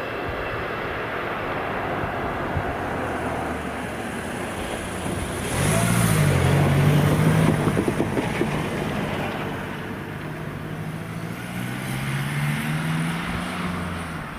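An engine running as a vehicle passes, its pitch rising and falling. It grows loudest about six to eight seconds in, then swells again near the end.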